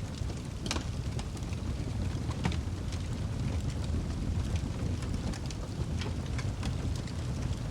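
Wood fire burning in a fireplace: a steady low roar with scattered sharp crackles and pops, a louder pop a little under a second in and another about two and a half seconds in.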